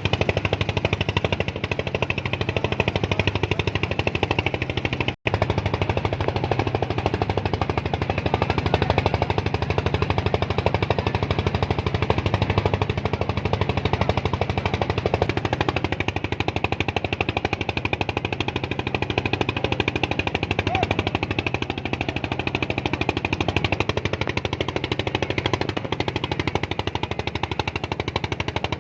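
A small engine running steadily at close range, with a fast, even chugging pulse. The sound breaks off for an instant about five seconds in.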